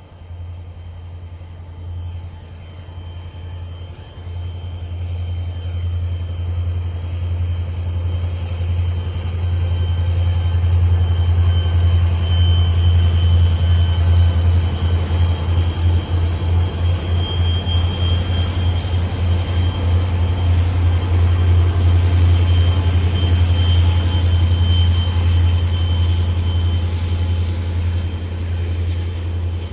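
Diesel freight train passing: a low, rumbling locomotive engine and rolling cars growing louder over the first ten seconds or so, then holding and easing off slightly near the end.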